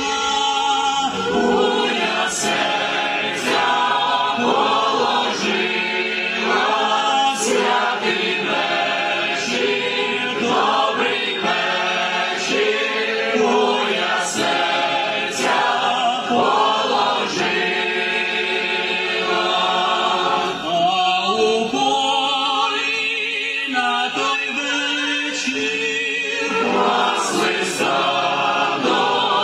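A choir singing a Ukrainian Christmas carol, many voices together in sustained sung lines.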